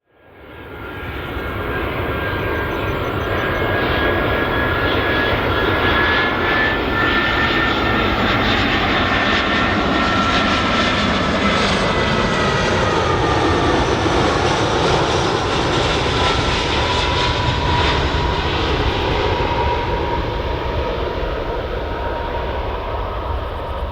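Airbus A320-214 jet airliner with CFM56-5B turbofan engines coming in to land and passing by. It is a steady, loud jet rush that swells up over the first couple of seconds, with a high whine that slowly drops in pitch as it goes past.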